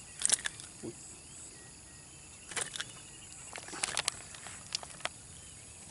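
Outdoor ambience with a steady insect buzz, broken by a few short scattered clicks and rustles of handling.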